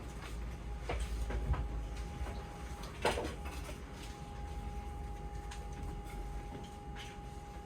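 Inside a stopped Keihan 3000-series electric train: a steady low rumble and a faint steady whine from the onboard equipment, with a few sharp knocks, the loudest about three seconds in.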